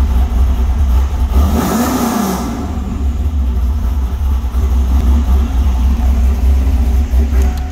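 1997 Camaro's LT1 5.7-litre V8 idling steadily at about 1,000 rpm, heard from inside the cabin as a deep, even rumble, with a brief swell of noise about two seconds in.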